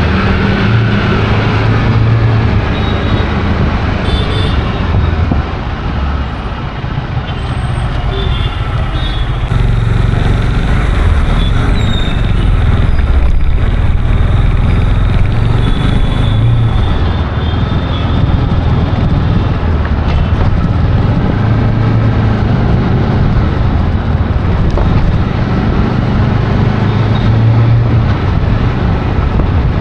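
Loud, steady road traffic noise: vehicle engines and tyre rumble with a heavy low drone.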